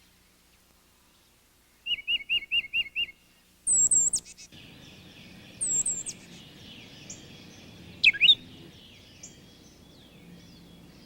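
Tufted titmouse singing a quick run of about six repeated two-part whistled notes, followed by thin, very high notes in short groups of two or three and a few sharp sweeping calls from birds. A faint steady hiss lies beneath the second half.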